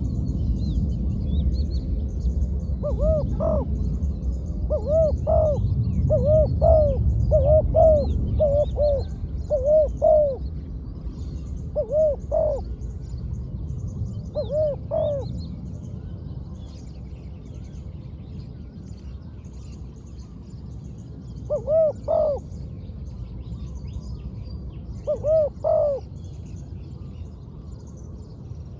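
Spotted dove cooing: phrases of short, arched coos, a long run of them in the first half and two short phrases later on. Small birds chirp faintly behind, over a low rumble that fades after the first half.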